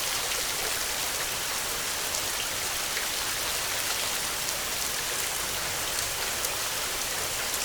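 Heavy rain falling steadily, an even hiss with scattered individual drop ticks; no thunder.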